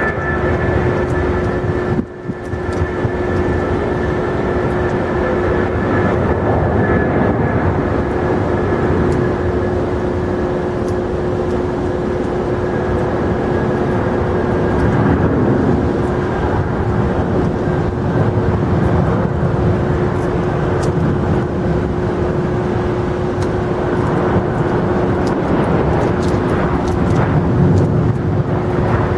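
Jet airliner engines running, a loud steady drone with a held whine; higher whining tones fade about a third of the way through, and the sound drops briefly about two seconds in.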